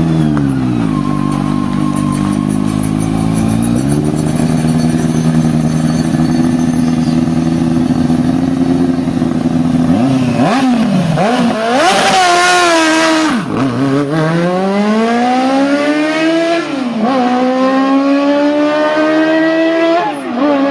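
Yamaha R1 inline-four motorcycle engine in a Zaporozhets car, running at a fairly steady pitch for about ten seconds, then revving up and down. It then pulls through the gears: the pitch climbs steadily and drops sharply at each upshift, twice near the end, with a brief hiss about twelve seconds in.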